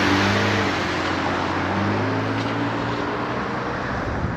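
Steady rushing wind and road noise while riding, with a motor vehicle's low engine hum that fades away a little past three seconds in.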